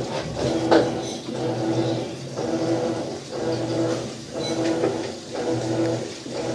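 Maytag washing machine agitating: a motor hum that swells and breaks off about once a second as the agitator strokes back and forth.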